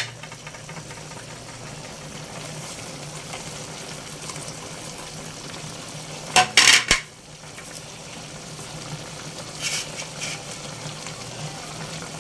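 Ladle or spoon stirring a pot of chicken tinola soup, with a few loud metal clanks against the pot about six and a half seconds in and softer clinks near ten seconds, over a steady low hum.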